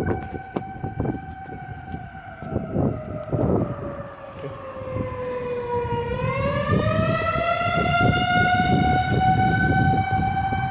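Outdoor tornado warning siren wailing: one long tone that sinks in pitch about six seconds in, then rises back and holds. Low rumbling noise and scattered knocks sit underneath.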